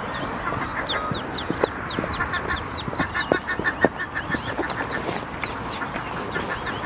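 A group of ducklings peeping: many short, high-pitched, downward-sliding chirps in quick succession, over steady background noise with a few faint ticks.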